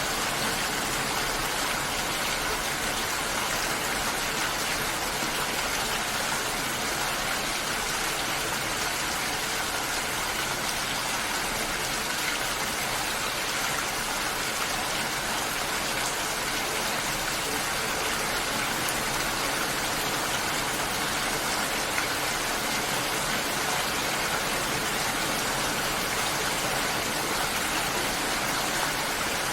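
Steady, even rushing of water with no pauses or separate drops standing out.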